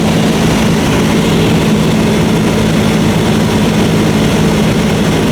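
Cessna 152's engine and propeller droning steadily in flight, heard from inside the cabin as a loud, even hum with no change in pitch.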